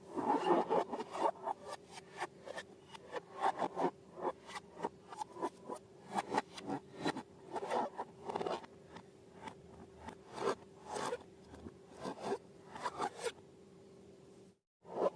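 Short scraping and rubbing strokes, several a second, from hands working balloons and slime, over a faint steady hum. The sound cuts out briefly near the end.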